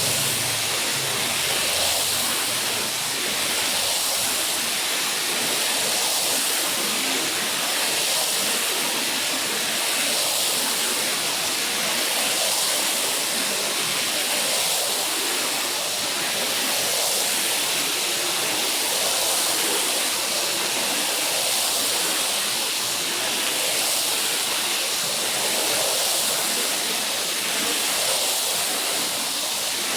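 Water spraying onto a carpet during cleaning: a steady rushing hiss that swells and eases about every second and a half.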